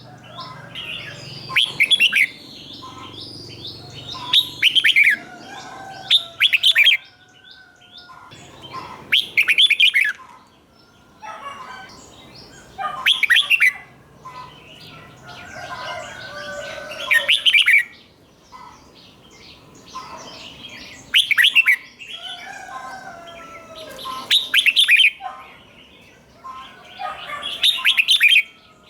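Red-whiskered bulbul singing short, loud, whistled phrases every few seconds, often two in quick succession (the 'doubled' song type). Quieter chattering calls fill the gaps between phrases.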